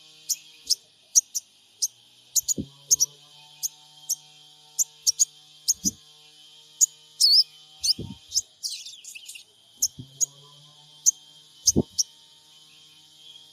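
Sogon bird calls: a run of short, sharp, high chirps, about one or two a second, with a steady high drone beneath. A few brief low sounds come roughly every three seconds.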